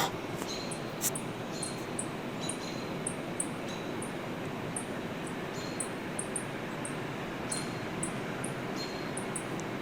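Steady outdoor background hiss with faint, short, high-pitched chirps of small birds scattered throughout.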